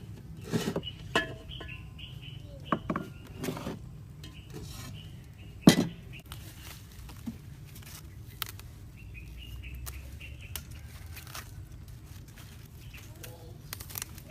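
Scattered knocks and clinks of dishes and kitchen utensils being handled, the loudest a sharp knock about six seconds in, over a low steady hum.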